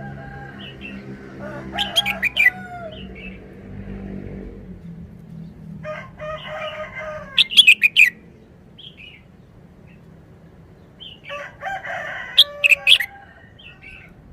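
Red-whiskered bulbul singing three short song phrases of bright whistled notes, a few seconds apart. A low steady hum runs underneath during the first phrase.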